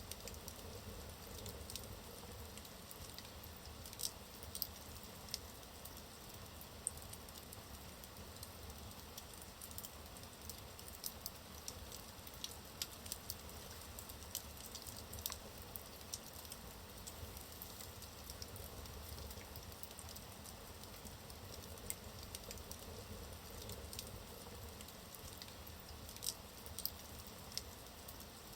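Wood fire burning in a fireplace: a steady low hiss with irregular crackles and sharp pops from the burning logs.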